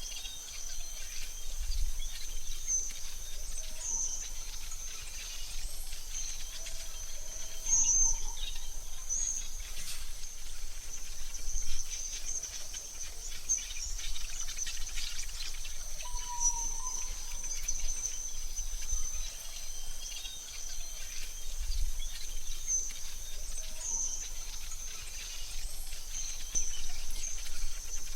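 AI-generated forest ambience: a steady high insect drone, with a few short bird calls now and then and a faint low rumble under it.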